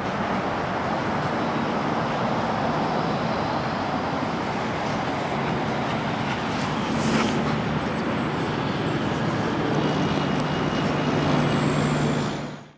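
Steady city street traffic noise, with a low engine hum growing stronger near the end; it cuts off suddenly at the end.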